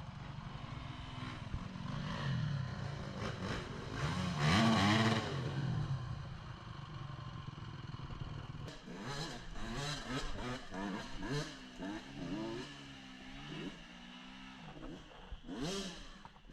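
Dirt bike engines revving up and down, with the loudest surge about four to five seconds in and a run of quick throttle blips in the second half.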